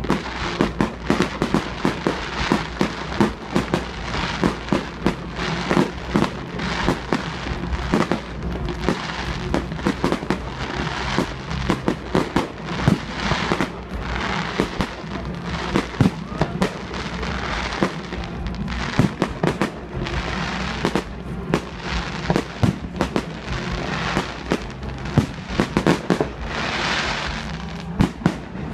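Fireworks display: aerial shells bursting in a dense run of bangs, several a second, with crackling between them. A long crackling hiss swells near the end.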